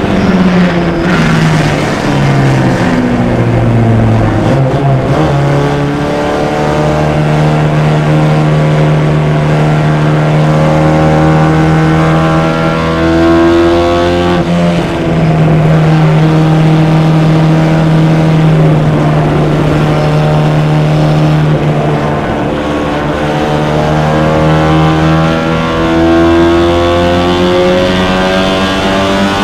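Four-cylinder engine of an open-cockpit MG race car at racing speed, with wind noise in the open cockpit. The revs fall over the first few seconds as the car slows, then climb and hold high, dipping briefly about halfway through and again later before climbing once more.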